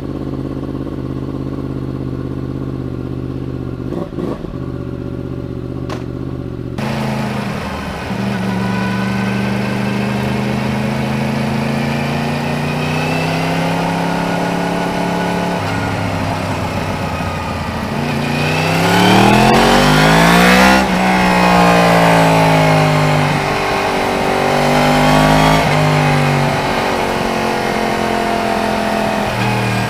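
Yamaha MT-10's crossplane inline-four through an SP Engineering carbon-fibre stubby slip-on exhaust with the catalytic converter still fitted. It runs steadily for the first several seconds, then the revs rise and fall repeatedly, with the biggest and loudest rise to a high pitch about two-thirds of the way through before dropping away.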